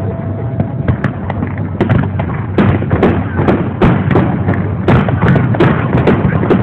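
Aerial fireworks shells bursting in a rapid string of bangs and crackles, about two to three reports a second.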